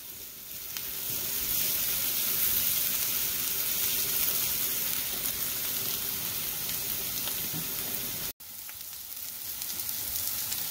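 Sliced onions and curry leaves sizzling in coconut oil in a nonstick frying pan, stirred now and then with a silicone spatula. The sizzle is steady, and cuts out for an instant about eight seconds in.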